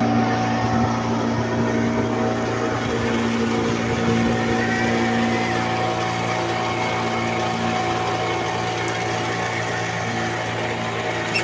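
Motorboat engine running steadily, an even drone at one unchanging pitch.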